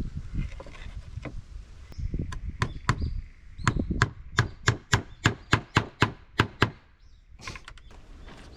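A hand tool striking wood in a run of quick, even blows, about three a second, after a few scattered strikes and followed by some lighter taps near the end.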